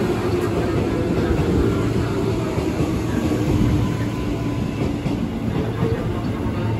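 KRL Commuter Line electric train moving slowly past along the platform: a steady rumble and clatter of wheels on rail, with a faint hum from its motors, easing off a little near the end.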